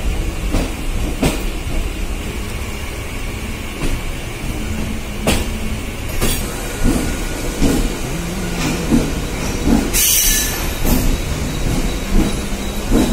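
Mumbai suburban electric local train rolling along, a steady rumble with sharp wheel knocks over the rail joints every second or so. A short loud hiss comes about ten seconds in.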